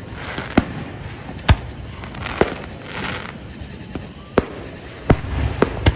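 Aerial fireworks bursting: about six sharp bangs spread unevenly, the loudest about one and a half seconds in, with crackling between them.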